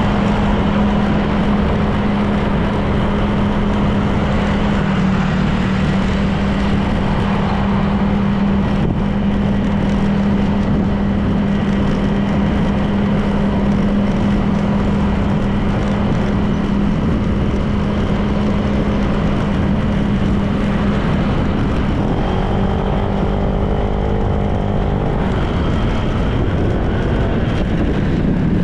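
Honda PCX 160 scooter's single-cylinder engine running at a steady cruise, its hum holding one pitch under wind and road noise. For about three seconds near the end the hum drops back and a cluster of higher steady tones comes in.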